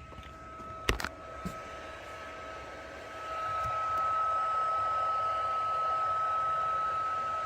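Electric blower fan running with a steady whine over a rush of air. Two sharp clicks come about a second in, and the airflow grows louder about three seconds in.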